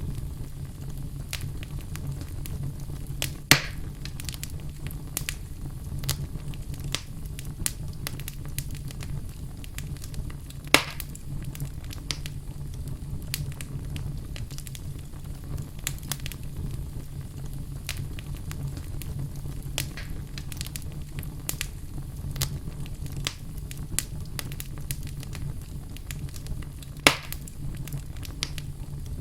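Wood fire burning in a fireplace, crackling with many small snaps and three louder pops spread through, over a steady low rumble.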